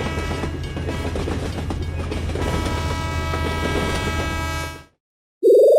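Animated train sound effect: a steady rumble of a passing train with held tones like a horn over it. It cuts off suddenly about five seconds in. After a short silence, a loud rising cartoon sound effect begins near the end.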